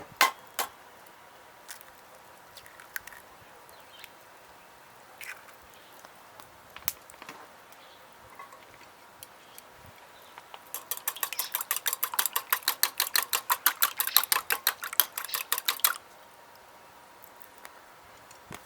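Eggs being beaten in a bowl: a few scattered clinks of a utensil against the bowl, then about five seconds of rapid, even clicking, roughly eight strokes a second, getting louder and stopping suddenly.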